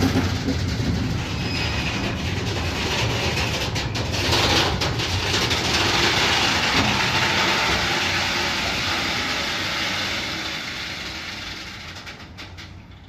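A train running past on the rails as a steady, loud rolling noise, loudest mid-way and fading away over the last three seconds.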